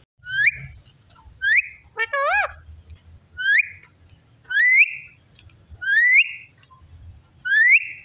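Parrot giving a series of short upward-sweeping whistles, six in all, spaced about a second or more apart, with a wavering rise-and-fall call about two seconds in.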